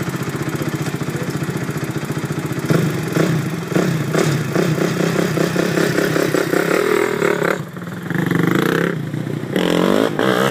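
A 1979 Chevrolet Malibu's engine idling with an even beat, then revved repeatedly from about three seconds in, its pitch rising and falling.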